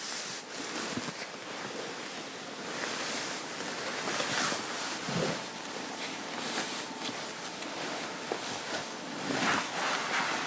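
Clothing fabric rustling and swishing as garments are handled and adjusted on a person, in uneven swells with a few soft knocks.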